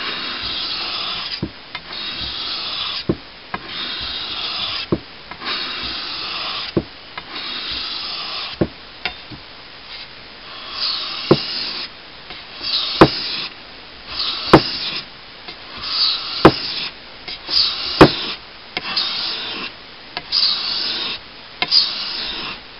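A steel blade stroked back and forth across a wet whetstone in about fifteen even rasping strokes. A sharp click falls between many strokes, louder in the second half.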